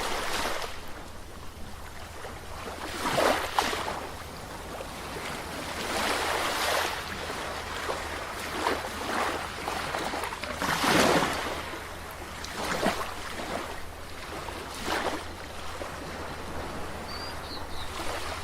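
Ocean waves on a shore: a steady wash of surf that swells into a breaking wave every few seconds. A brief high chirp comes near the end.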